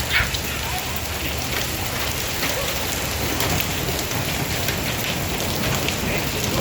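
Heavy rain mixed with dime-sized hail pelting down: a steady hiss of rain, dotted with many sharp ticks of hailstones striking surfaces.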